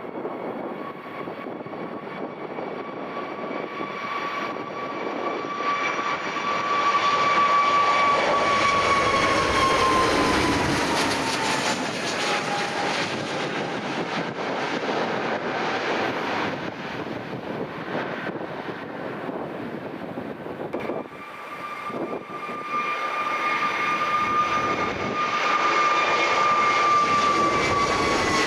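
Aircraft engines passing close by: a steady high whine over a rumble drops in pitch about ten seconds in as the aircraft goes past. A second whine sets in about twenty seconds in and begins to fall near the end.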